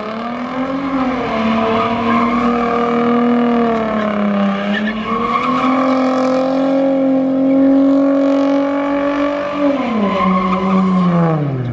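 A car engine held at high revs during a burnout, with the tyres spinning, dipping briefly midway and then dropping off near the end as the driver lets off.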